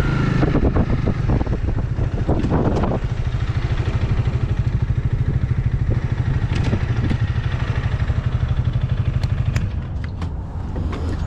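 Honda Rebel 300's single-cylinder engine running at a steady low speed with an even, rapid pulse. It drops in level about ten seconds in.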